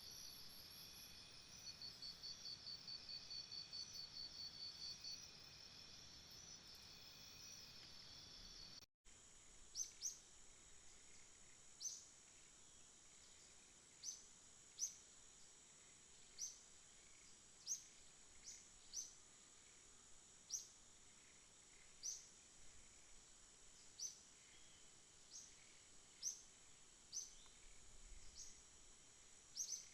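Faint jungle ambience of insects trilling in a dense, high, pulsing chorus. About nine seconds in, the sound drops out for a moment. It then switches to a steady high insect whine with short, falling chirps repeating about once a second.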